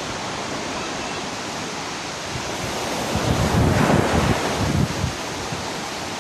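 Steady rushing of a waterfall, with wind buffeting the microphone, strongest in a gust from about three to five seconds in.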